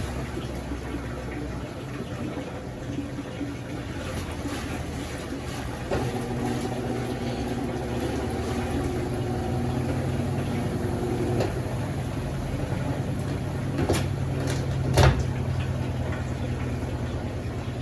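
Consul CWS12 12 kg washing machine running through its cycle, the motor humming steadily, with its tone changing about six and eleven seconds in and a couple of short knocks near the end.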